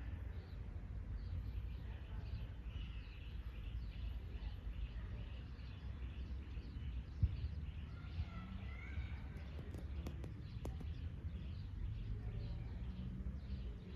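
A small bird chirping over and over, about three short high chirps a second, with a couple of longer whistled notes about two-thirds of the way in, over a steady low rumble.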